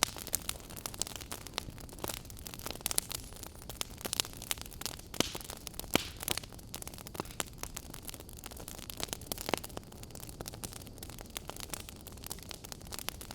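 Wood fire crackling in a fireplace: a steady hiss of flames with frequent irregular snaps and pops, a few louder pops standing out.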